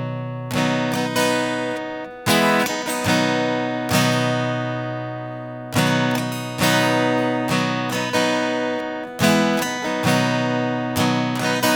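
Acoustic guitar strumming chords, each stroke ringing out and fading before the next, as the intro to a country song before the singing comes in.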